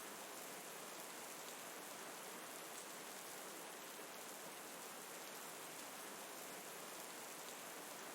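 Steady rain falling, an even, unbroken hiss that keeps the same level throughout.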